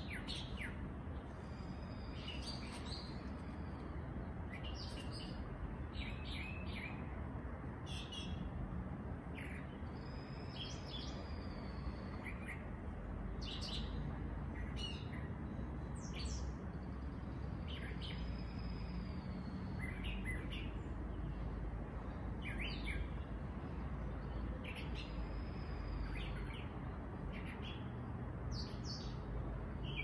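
Backyard birds chirping and calling, many short high chirps with a longer arched whistle repeated about every seven to eight seconds, over a steady low rumble.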